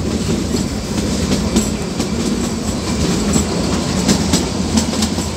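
Narrow-gauge Kalka–Shimla toy train running, heard from on board: a steady rumble from the carriages, with irregular clicks from the wheels passing over the rail joints.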